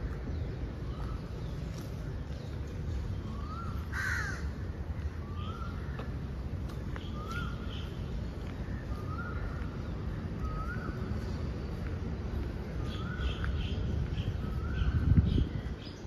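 A bird calling over and over, a short rising note about every second and a half, over a steady low background rumble. There is a louder low thump near the end.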